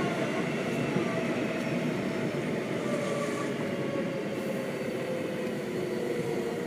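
Seibu 6000 series train heard from inside the car: the Hitachi GTO-thyristor VVVF inverter and traction motors whine over steady wheel and rail rumble. The whine falls slowly in pitch as the train slows on its approach to the station.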